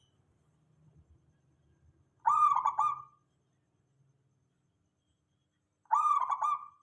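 Zebra dove (perkutut) cooing: two short phrases of quick, rolling coo notes, each under a second long, about three and a half seconds apart.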